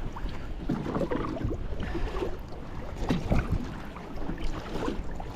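Kayak paddling on open water: paddle blades dipping and splashing about once a second, with water sloshing against the hull over a steady low wind rumble on the microphone.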